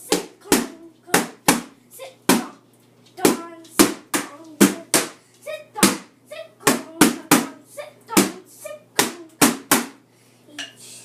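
Taiko drum struck with sticks in a quick, uneven rhythm, about two sharp hits a second, with short vocal calls between some strikes.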